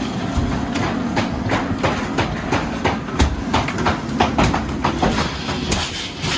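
Steady machine rumble with many irregular knocks and clanks over it.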